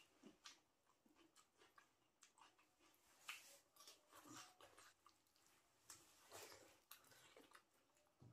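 Faint chewing and mouth noises of a person eating rice and chicken by hand, with scattered soft clicks and a few brief wet bursts.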